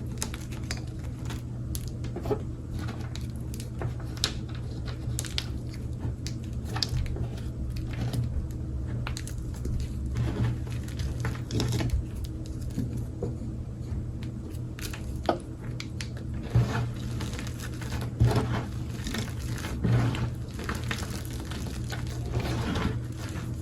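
Gym chalk being crushed and crumbled by hand: a long run of irregular crunches and crackles, over a steady low hum.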